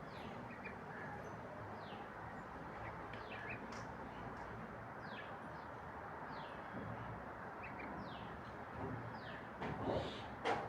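A bird chirping over and over, short falling notes about once a second, over a steady background hiss. A few knocks come near the end.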